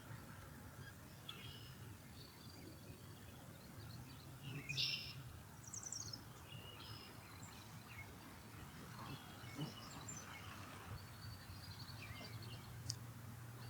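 Birds calling outdoors: scattered short, high chirps and whistles, the loudest about five seconds in and a quick run of notes near the end, over a faint steady low background hum.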